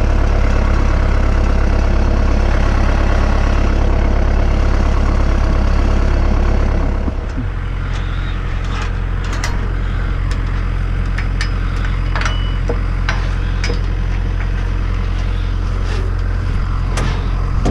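Tractor engine running steadily, then throttled down to a lower, quieter idle about seven seconds in. Scattered sharp clicks and knocks sound over the idle after that.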